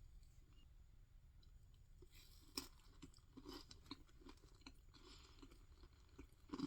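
Faint, close-miked chewing and soft mouth sounds of someone eating fluffy Japanese cheesecake, with scattered small clicks and one sharper click about two and a half seconds in.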